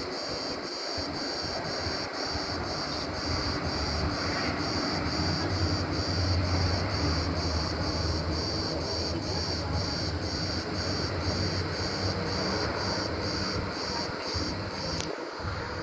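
Cicadas chirring in an even pulse of about two beats a second, over a low rumbling noise that swells in the middle; the chirring stops shortly before the end with a sharp click.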